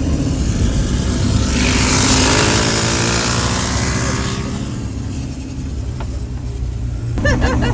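Riding lawn mower engines running hard. About a second and a half in comes a louder rush of engine and wind noise lasting nearly three seconds, with the engine pitch falling, before the engines settle back to a steady rumble. A brief shout comes near the end.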